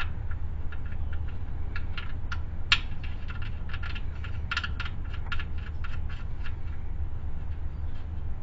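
Irregular light metallic clicks and taps as a magnetic oil drain plug is handled and started into the aluminum oil pan by hand, loudest between about three and six seconds in, over a steady low hum.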